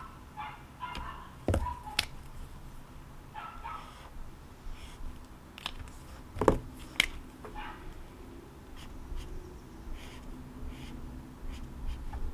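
Several sharp knocks and taps, the loudest about six and a half seconds in, over faint short animal calls in the background.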